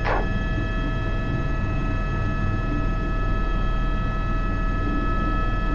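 Airbus H125 (AS350 B3) helicopter in flight, heard from the cockpit: a steady rumble of rotor and turbine with several constant whining tones over it.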